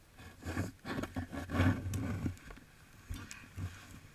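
Snow being scooped and packed into a snow mold: irregular crunching and scraping for about two seconds, then quieter, with a few soft knocks near the end.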